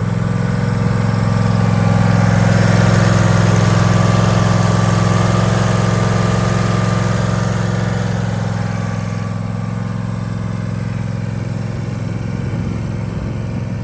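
Gasoline engine of a Husqvarna Z254F zero-turn mower running steadily. It grows louder over the first few seconds and eases off after about nine seconds.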